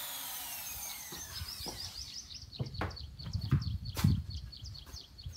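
A small bird chirping over and over in short, even, high calls, about three a second. A falling whistle-like sweep of tones in the first two seconds, then low thuds and knocks as heavy speaker cabinets are handled, the loudest a sharp knock about four seconds in.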